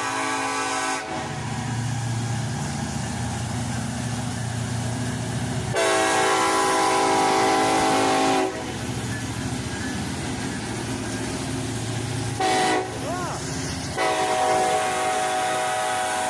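Norfolk Southern diesel locomotive's air horn sounding the grade-crossing signal, long, long, short, long, over the steady rumble of the passing train. The first long blast is already sounding and stops about a second in.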